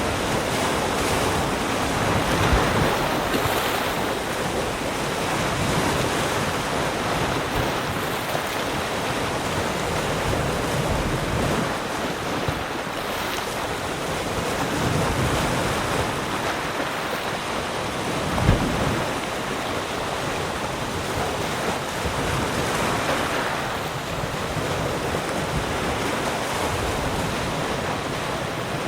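Ocean surf washing steadily on the shore, rising and falling in slow swells, with low wind rumble on the microphone. A brief thump about two-thirds of the way through.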